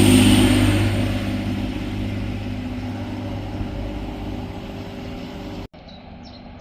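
Diesel engines of a pair of coupled Class 185 Desiro multiple units running as the train moves off, a steady low hum that fades away over about five seconds. About five and a half seconds in the sound cuts abruptly to quieter open air with small birds chirping.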